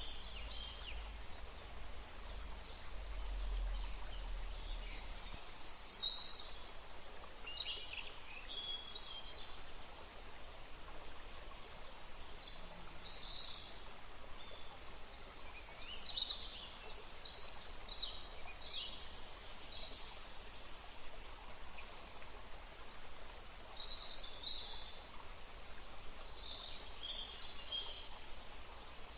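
Woodland ambience: a steady background hiss with small birds calling and chirping on and off, short sweeping notes scattered throughout. A low rumble sits under it for the first few seconds.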